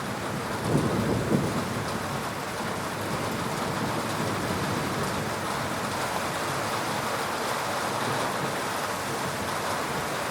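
Heavy rain falling steadily in a thunderstorm. A brief low rumble of thunder comes about a second in.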